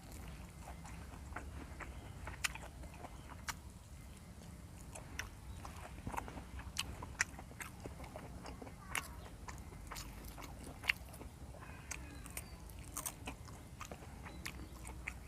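Close-up chewing and crunching of raw lalapan vegetables, with irregular sharp crunches and clicks of the mouth.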